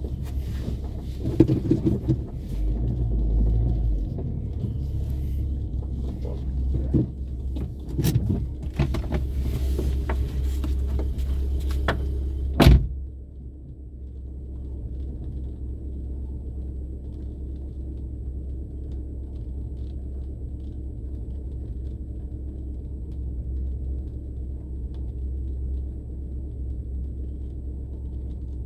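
Car driving, a low rumble of engine and road. For the first dozen or so seconds it comes with bumps and rattles, and a sharp knock about thirteen seconds in is the loudest moment. After that it settles into a steadier, quieter low rumble.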